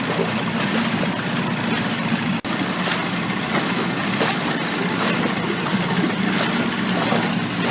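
Motorboat engine running steadily under a constant hiss, with a momentary dropout about two and a half seconds in.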